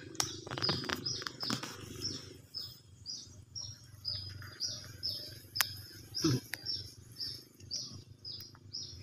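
A bird repeating a short, high, falling chirp, about twice a second, with a few clicks and rustles near the start.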